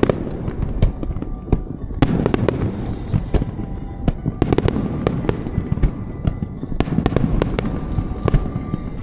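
Aerial fireworks going off: a rapid run of sharp bangs and crackling bursts, bunched in clusters, over a continuous low rumble of booms.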